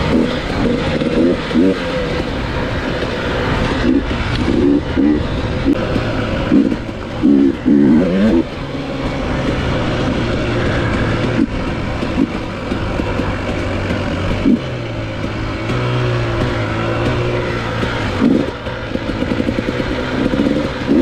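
Off-road motorcycle engine revving with repeated quick throttle blips, settling to a steadier run in the middle before revving up and down again near the end.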